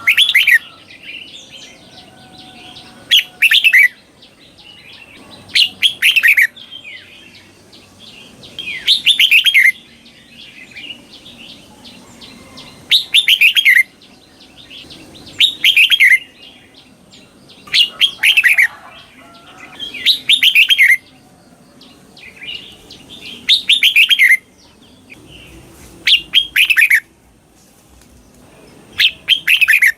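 Red-whiskered bulbul singing its doubled song: short, loud phrases of quick falling notes, one about every three seconds, eleven in all.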